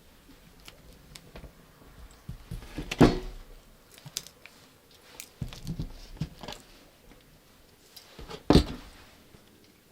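Close-up handling sounds in a small room: two heavy knocks about five and a half seconds apart, with lighter clicks, taps and short rustles between them.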